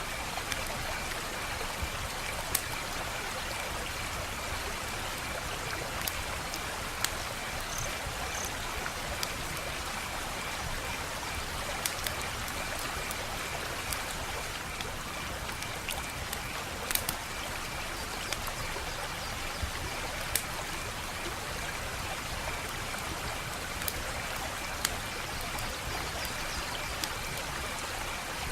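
Wood fire crackling: a steady hiss with sharp pops and snaps at irregular moments, a few of them louder than the rest.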